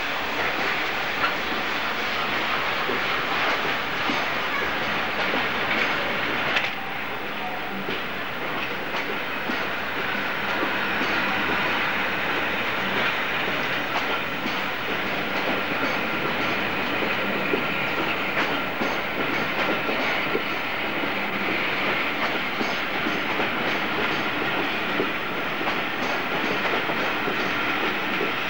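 Railway passenger coaches rolling steadily past along the platform, their wheels clicking rhythmically over the rail joints.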